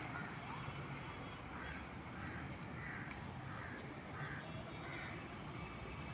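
A crow cawing repeatedly, a series of short harsh calls about one every half second to second, over a steady low background rumble.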